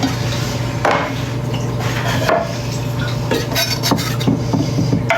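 Kitchen food-prep clatter: irregular knocks and clinks of utensils and dishes on the counter, over a steady low hum.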